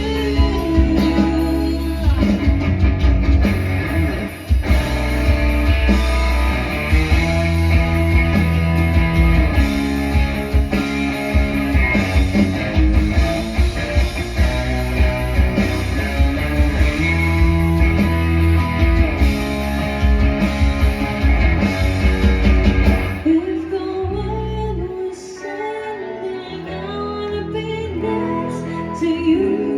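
Live band music with guitar, bass and drums and no sung words. About 23 seconds in, the bass and drums drop out and a softer melody carries on alone.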